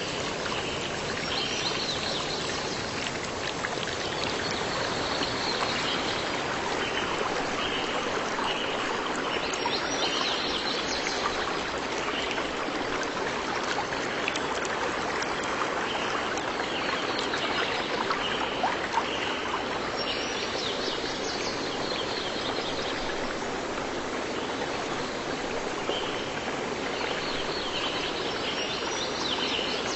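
Flowing stream, a steady rush of running water, with runs of short, evenly repeated high chirps from a bird recurring every ten seconds or so.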